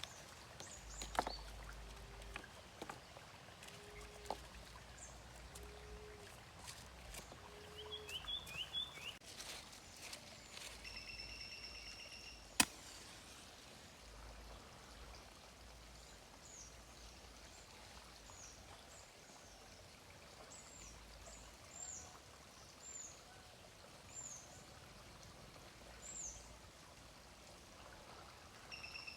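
Birds calling over a faint steady background. A low call repeats four times about two seconds apart, then short high chirps come at intervals, with a few sharp clicks, one louder about halfway through.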